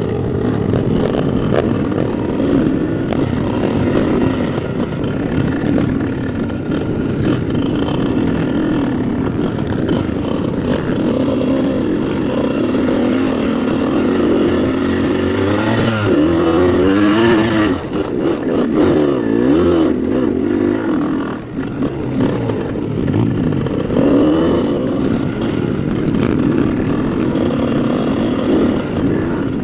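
Motorcycle engine running under load as the bike is ridden, the throttle opened and closed so the engine note rises and falls again and again.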